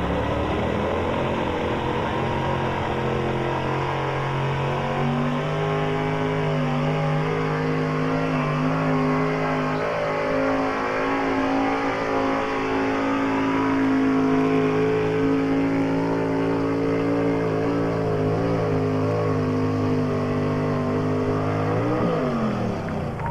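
Gas-engined pulling truck held at full throttle during a pull, its engine note high and steady, climbing slowly. Near the end the engine note drops away sharply as it lets off.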